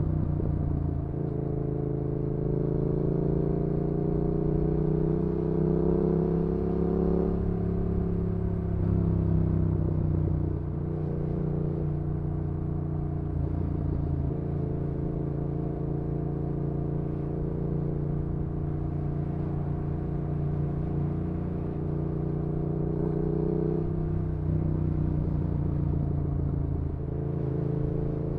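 Yamaha XSR700's parallel-twin engine through an aftermarket IXRACE MKII exhaust, heard from the bike while riding. The revs climb a couple of seconds in, fall away around seven seconds, hold fairly steady while cruising, and climb again near the end.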